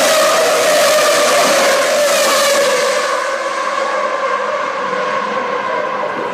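1998 Formula One car's 3-litre V10 engine running at high revs, its pitch easing slightly lower; a rushing high hiss that comes with it fades away about three seconds in.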